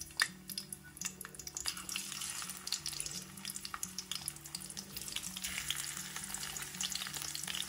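Whole bitter gourds sizzling and crackling in shallow hot oil in a kadai as they are laid in one by one, with a sharp crackle about a quarter second in.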